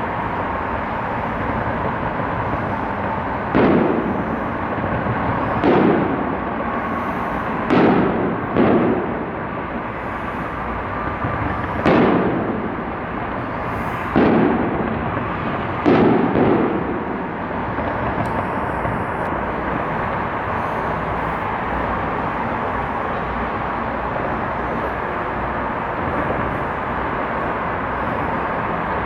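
Aerial fireworks shells bursting: about seven booms spread over some thirteen seconds, two of them close together, over steady background noise. The booms stop after about seventeen seconds.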